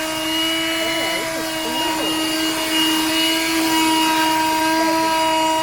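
Black & Decker 12-volt handheld car vacuum cleaner running steadily, a constant motor whine over the rush of air as it sucks up dirt.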